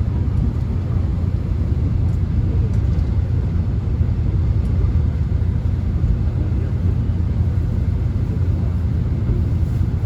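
Subway train running, heard from inside the carriage: a steady low rumble with a faint even hiss above it.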